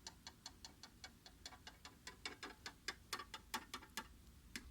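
Faint, steady, rapid ticking, about five or six even ticks a second.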